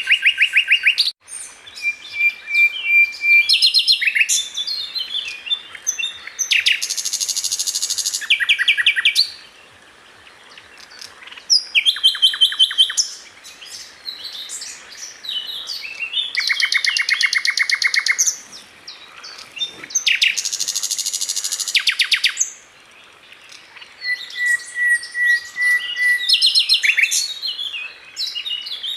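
A sikatan londo flycatcher singing a long, varied song: fast rattling trills and quick runs of repeated chips, now and then a held whistle, broken by short pauses.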